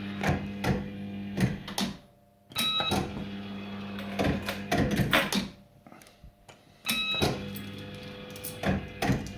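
Bell Fruit Firecracker fruit machine playing games back to back. Each spin starts with a short beep, the reels then run with a steady motor hum and clicking, and a cluster of sharp clunks follows as the reels stop. New spins begin about two and a half seconds in and again about seven seconds in.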